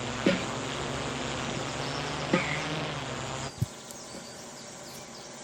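Multirotor drone buzzing steadily overhead, with a few short sharp chirps over it; the buzz cuts off abruptly about three and a half seconds in, leaving a quieter field background with faint high chirps.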